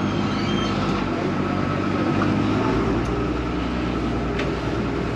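Vaporetto water bus's diesel engine running steadily under way, a low hum that deepens slightly a little over halfway through.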